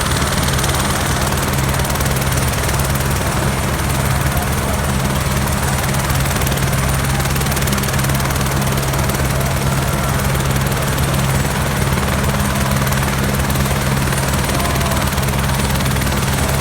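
Helicopter running nearby, its rotor and engine making a loud, steady low drone that holds the same pitch throughout.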